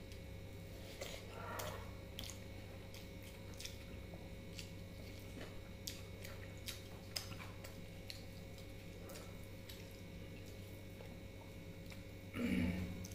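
Chewing and mouth sounds of eating rice and fish curry by hand, with scattered small clicks and squelches from chewing and from fingers mixing rice on the plate, over a faint steady electrical hum. A brief, louder low sound comes near the end.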